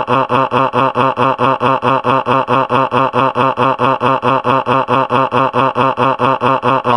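Cartoon character's looped crying sound: rapid, identical sobs at about five a second, cutting off sharply at the end.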